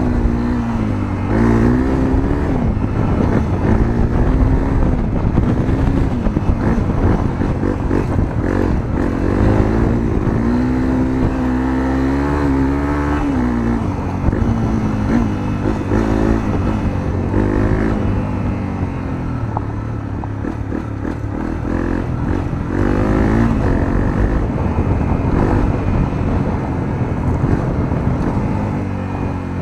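Honda CRF250L's single-cylinder four-stroke engine through a Moriwaki aftermarket muffler, heard from on board while riding. The revs rise and fall again and again as the rider opens and closes the throttle through the gears, with one longer pull held at high revs partway through.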